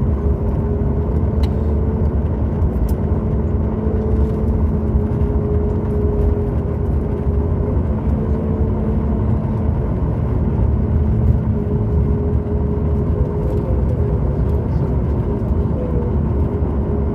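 Cabin noise inside a Boeing 737 MAX 8: a steady rumble of the CFM LEAP-1B engines and rushing air, with two steady hum tones, one low and one higher.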